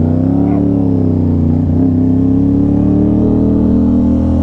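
Aprilia RS660's parallel-twin engine running through an SC Project S1 full titanium exhaust while riding. Its pitch rises and sags, breaks briefly about a second and a half in, then climbs gently and holds steady.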